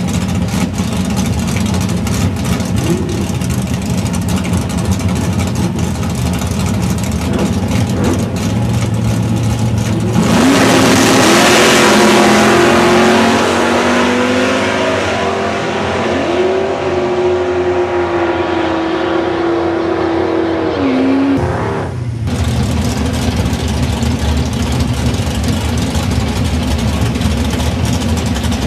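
Drag-racing Chevrolet Camaro at the start line, its engine rumbling steadily, then launching hard about ten seconds in with a sudden loud burst. The engine note climbs and drops back a few times as the automatic transmission shifts, fading as the car runs away down the track. A cut near the end returns to a steady engine rumble close by.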